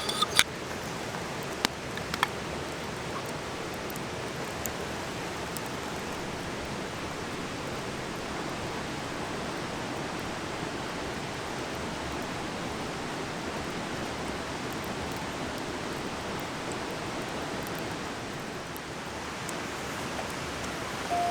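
Steady rushing of a stream, with a few sharp clicks in the first couple of seconds, likely crackles from the campfire.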